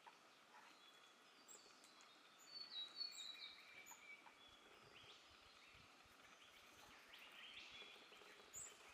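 Faint birdsong: several birds giving short chirps and whistled notes, busiest about two to three and a half seconds in, with another sharp call near the end.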